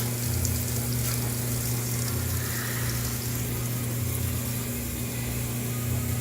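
Top-loading laundry washing machine running with water in it, a steady low hum under a constant rush of water.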